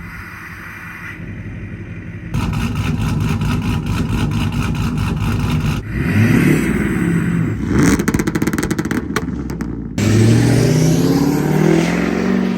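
Pickup truck V8 exhausts, a cammed gas V8 and a straight-piped diesel V8, idling and revving in a run of short clips that cut abruptly from one to the next, with the pitch rising on hard revs about six seconds in and again from about ten seconds in.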